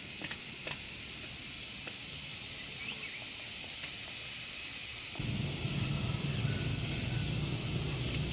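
Outdoor ambience with a steady high insect drone and a few faint clicks; about five seconds in, a low steady rumble comes in.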